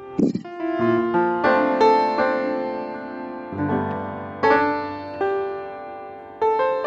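Slow background piano music: single notes and chords struck every second or so and left to ring out.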